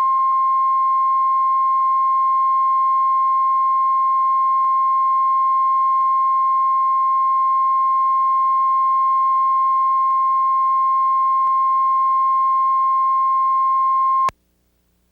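Line-up test tone at the head of an old tape transfer: one steady, unchanging pitch like a long beep, cutting off suddenly near the end.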